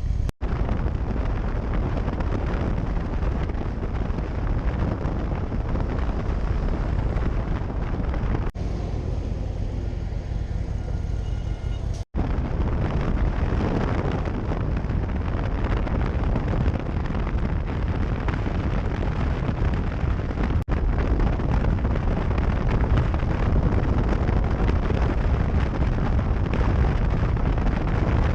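A vehicle in motion heard through a GoPro action camera: a loud, steady rumble with wind buffeting on the microphone. It breaks off abruptly three or four times where separate clips are joined.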